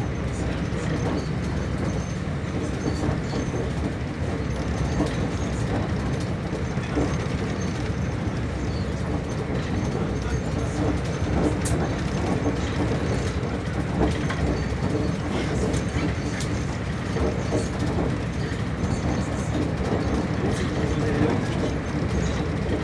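TER regional passenger train running along the line: a steady rumble of the wheels on the rails, with occasional faint clicks.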